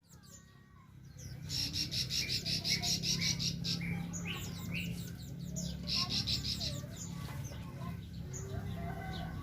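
Small birds chirping, with two fast high-pitched trills of rapidly repeated notes, over a steady low hum.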